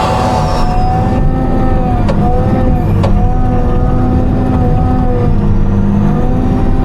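Timberjack 608 harvester's diesel engine and hydraulics running, heard from the cab: a steady low rumble with a wavering whine over it. Two sharp clicks about two and three seconds in.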